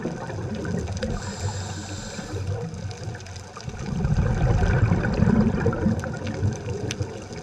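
A scuba diver breathing through a regulator, heard underwater: a short hissing inhale about a second in, then a long bubbling exhale from about four seconds in. Scattered faint clicks run throughout.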